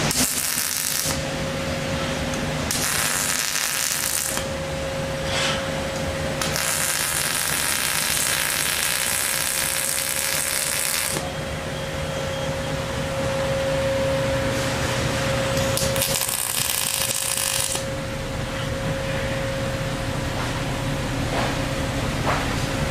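Electric arc welding: four spells of sizzling arc crackle, the longest about five seconds, with short pauses between the welds, over a steady hum.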